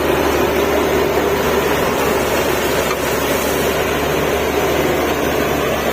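Borewell drilling rig's diesel machinery running steadily with a constant drone.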